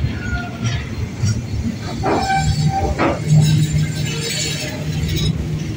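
Container-laden freight wagons rolling past close by: a steady low rumble of steel wheels on rail, with two sharp clanks about two and three seconds in, followed by a steady low hum.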